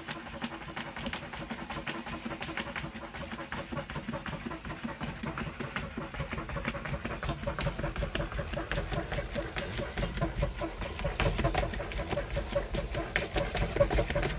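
A cat moving rhythmically inside a cardboard box, making a steady, fast patter of scratchy taps and rustles on the cardboard, about four a second, growing a little louder toward the end.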